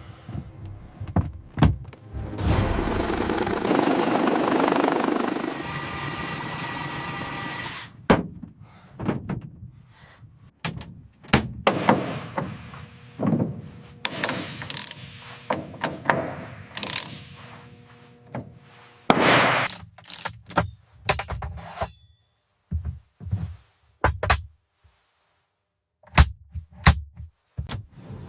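A series of separate knocks and clunks, with a loud stretch of steady rushing noise from about two to eight seconds in and another short burst of it a little past halfway.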